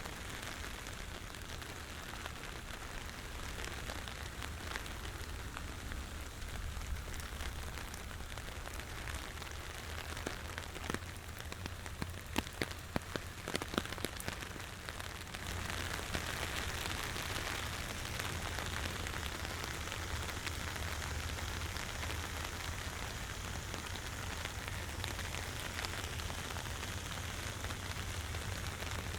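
Steady rain falling and pattering on surfaces, with a run of louder sharp drops or taps in the middle; about halfway through the rain grows heavier and louder.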